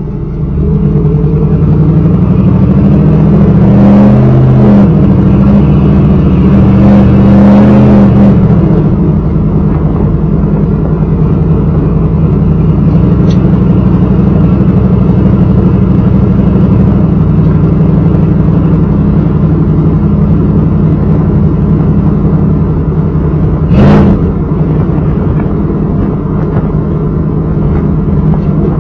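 1995 Chevy Camaro Z28's 5.7-litre LT1 V8 running loud through a Flowmaster exhaust. It is revved briefly twice in the first several seconds, then settles to a steady idle. There is a single sharp knock about 24 seconds in.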